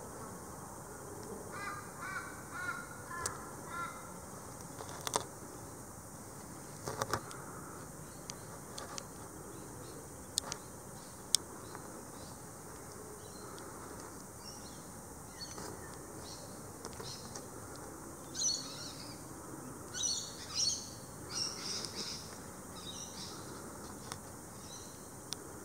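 Birds calling in the background: a run of repeated harsh calls in the first few seconds, then a series of higher chirps later on. A few sharp clicks stand out, the loudest about eleven seconds in.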